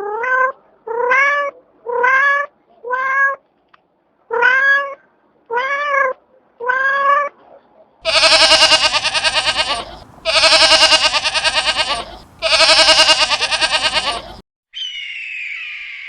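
Domestic cat meowing: seven short meows, each rising then falling in pitch. After them come three long, louder, wavering calls, and near the end a brief higher, rasping squawk begins.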